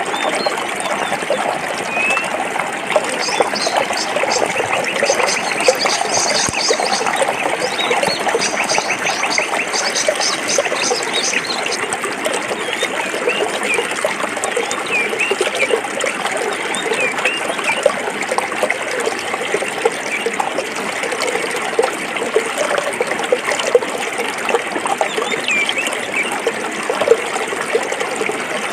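Stream water flowing and splashing over rocks, a steady babble. From about 3 to 11 seconds in, a rapid high trill of repeated notes runs over it, and short chirps come and go throughout.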